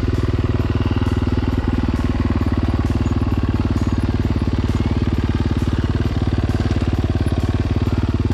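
Dirt bike engine idling steadily close by, its fast even firing unchanged, with no revving.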